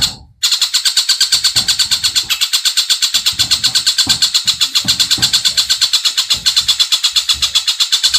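Cililin and tengkek buto birdsong for training cage birds: a loud, fast, even rattling trill at about ten notes a second, high-pitched, cutting out briefly just after the start.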